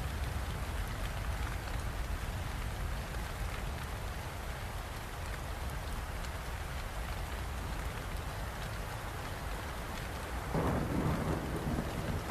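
Steady rain falling, with a low continuous rumble beneath it. About ten and a half seconds in, a louder rumble of thunder swells for a second or two.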